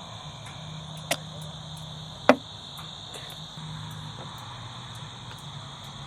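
Steady chorus of crickets, with two sharp knocks a little over a second apart; the second knock is louder.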